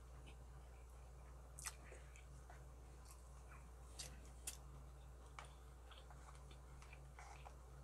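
Faint eating sounds from a person eating spicy braised pork ribs: quiet chewing with a handful of short sharp clicks, over a low steady hum.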